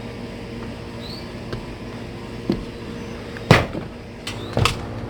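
A few sharp knocks, the loudest about three and a half seconds in and two close together near the end, over a steady mechanical hum.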